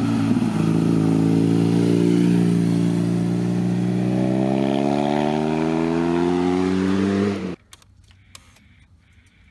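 BMW R nineT Scrambler's boxer-twin engine accelerating, its note rising slowly and steadily through one long pull. It cuts off suddenly about two seconds before the end, leaving only a few faint clicks.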